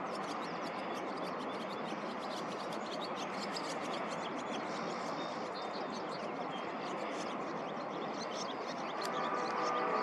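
Birds calling in many rapid, short, high chirps over a steady rushing background noise. Near the end a steady pitched tone with several harmonics comes in underneath.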